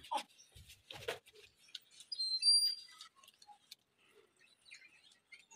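A few short, high-pitched bird chirps about two seconds in, with scattered soft taps and rustles around them.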